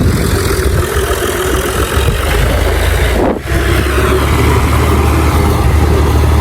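Tractor engine running steadily under harvesting work, a low hum that dips briefly about halfway through.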